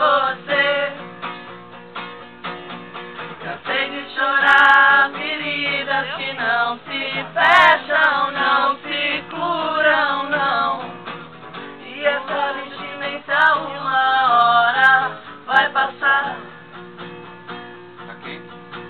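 Acoustic guitar strummed while voices sing along, the singing coming and going in phrases.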